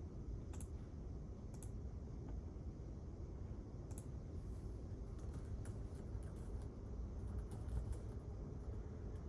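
Quiet computer keyboard typing: sparse, irregular key clicks over a steady low room hum.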